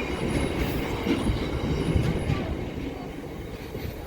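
Rear of a Class 158 diesel multiple unit passing slowly over a level crossing: a steady rumble with occasional wheel knocks on the rails, easing off as the end of the train goes by.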